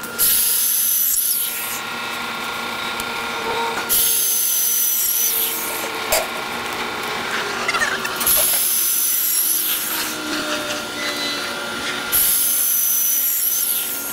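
Power drill with a porcelain drill bit grinding into hard tile in four bursts about four seconds apart, each a loud, high grinding hiss with a whine.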